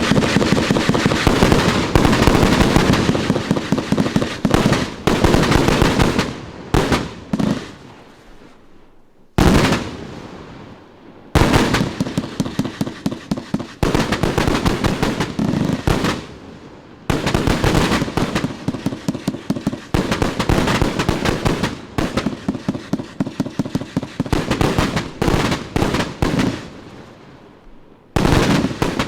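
A 100-shot brocade-crown firework cake firing in rapid volleys, several shots a second. A volley stops about seven seconds in and a new one starts about nine seconds in. There are brief lulls near 11, 17 and 28 seconds before the firing resumes.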